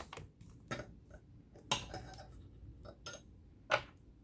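Small metal parts of a vintage all-metal sewing machine clicking and clinking as they are handled during disassembly, about five sharp uneven clicks, the loudest about halfway through and near the end.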